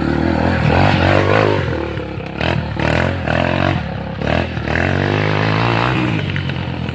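125cc four-stroke dirt bike engine revving up and down as the bike rides through mud, with a few clattering knocks.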